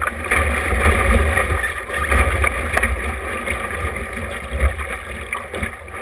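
Wind buffeting the microphone in uneven gusts over water rushing and splashing along the hull of a small sailboat under way.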